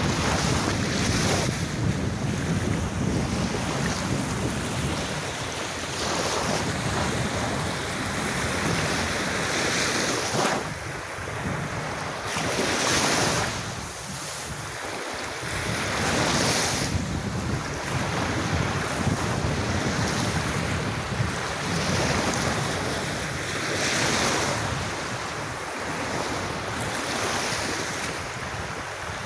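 Calm sea waves washing onto a sandy beach, the surf swelling and easing every few seconds, with wind rumbling on the microphone.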